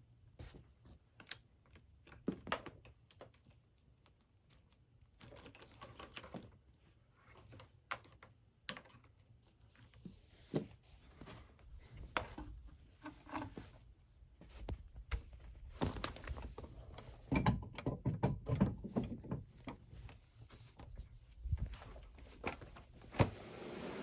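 Irregular clicks, knocks and rustling of things being handled, busier in the second half, with a steady running noise with a high hiss starting just before the end.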